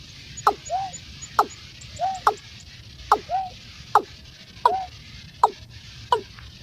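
Watercock (cúm núm) calling: a short hollow two-part note, one sharply falling and one curved, repeated evenly about once a second.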